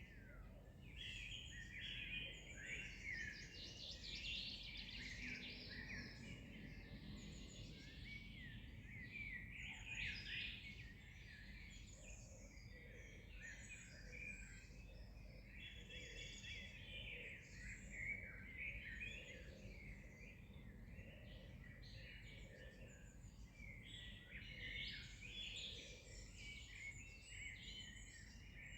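Many songbirds singing and chirping at once, a steady overlapping chorus of short phrases, faint over a low steady background hiss.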